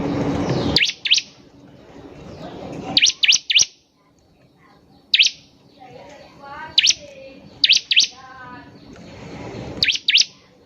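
Bar-winged prinia (ciblek) song: sharp, high, whip-like notes in quick clusters of two or three, with two stepped runs of lower trilling notes in between. A swelling rushing hiss cuts off about a second in and builds again near the end.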